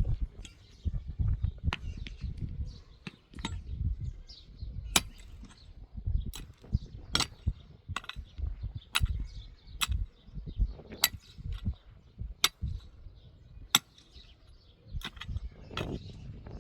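Hand-tool building work: sharp clinking taps and knocks, roughly one a second at an uneven pace, over a low rumble.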